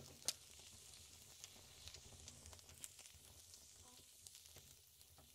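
Fire burning in a fireplace, heard close up: a faint, steady hiss with scattered sharp crackling pops, the loudest right at the start.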